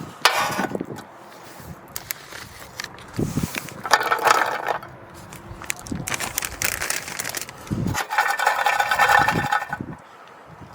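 Rustling and scraping of camping gear being handled, with a few short knocks; the longest scrapes come about four seconds in and again near the end.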